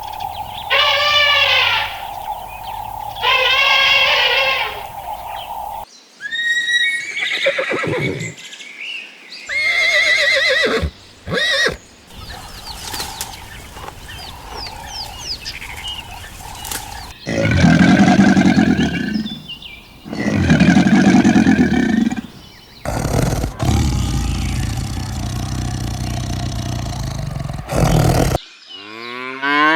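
A string of farm animal calls cut together one after another: several pitched calls, a stretch of high chirping in the middle, and two loud low calls later on.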